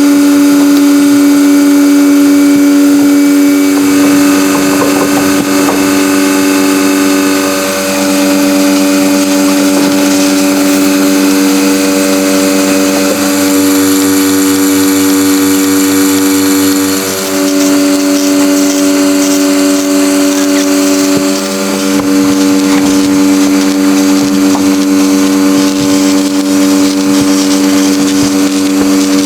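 Loud, steady machine hum with one strong, even pitch, like a small electric motor running, dipping briefly three times.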